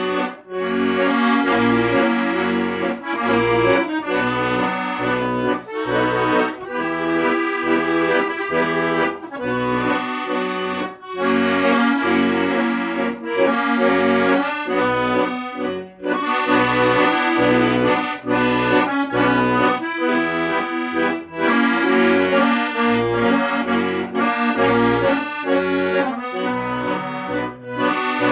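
Accordion music: a sustained melody and chords over a bass line that moves in an even beat, with short breaks between phrases.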